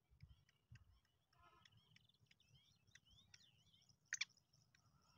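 Faint high bird chirps and short twittering calls, thickening from about halfway through, with a sharp double click about four seconds in over a low background hum.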